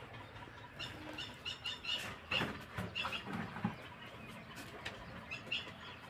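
Birds calling in a run of short, high chirps, with a few soft thuds and rustles mixed in through the middle.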